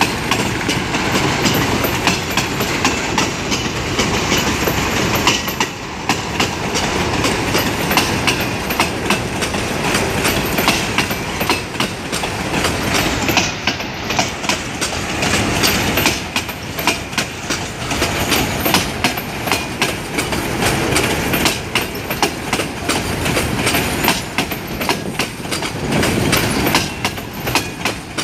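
Freight train boxcars rolling past. Their steel wheels click over the rail joints in a continuous run of clicks over a steady rolling noise.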